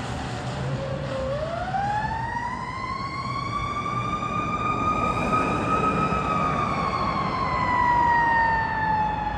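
Fire engine siren winding up from a low tone about a second in to a high wail, then slowly winding back down in pitch. A low rumble runs underneath.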